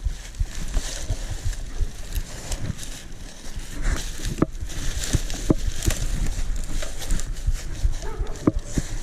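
Crunching and crackling of leaves and twigs, with scattered sharp snaps and a low steady rumble underneath.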